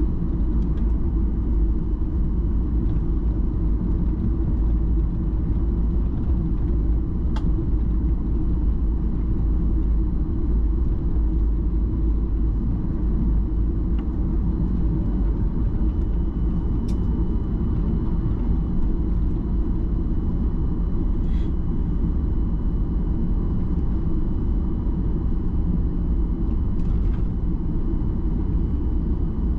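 Steady low rumble inside the cabin of a Boeing 737-800 airliner: its CFM56 engines and the airflow, with faint steady high tones joining about halfway through and a few light clicks.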